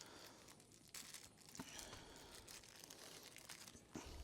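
Faint crinkling and rustling of a plastic snack wrapper or drink packaging being handled, with a few small clicks.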